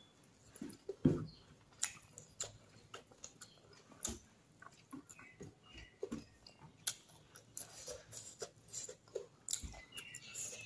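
Close-miked sounds of a person eating rice and curry with her fingers, mostly chewing: irregular soft clicks of the mouth, with the loudest about a second in.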